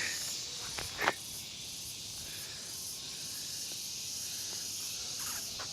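Steady high-pitched drone of insects outdoors, with a couple of short clicks about a second in.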